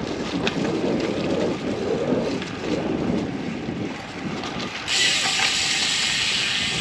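Ride noise from a road bicycle moving on damp pavement: wind buffeting the microphone with a low rumble, then about five seconds in a steady high hiss sets in abruptly, like tyres running through a wet patch.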